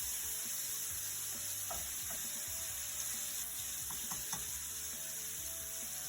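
Ground beef frying in a pan: a steady sizzling hiss with a few faint pops.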